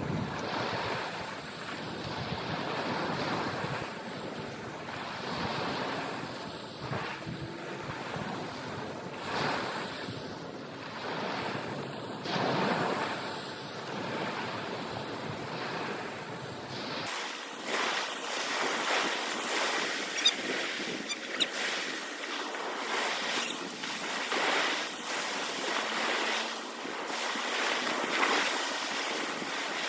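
Wind buffeting the microphone over the wash of waves, a steady rushing noise with a couple of sharp knocks about two-thirds of the way through.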